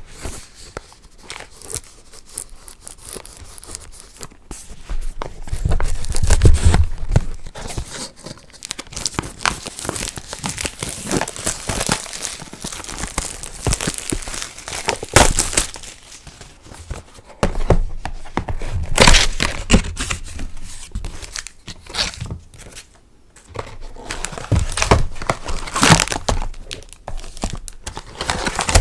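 Plastic wrapping of a trading-card booster box and packs being torn open and crinkled by hand: an irregular crackle with several louder tears and crumples, and a low handling thud about six seconds in.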